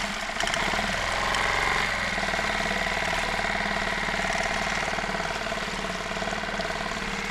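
Small outboard motor on a dinghy running steadily at low speed with an even hum.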